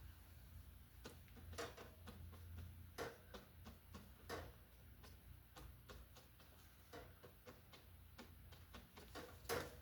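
Faint, irregular taps and clicks of a paintbrush dabbing acrylic paint onto canvas, over a low room hum, one tap louder near the end.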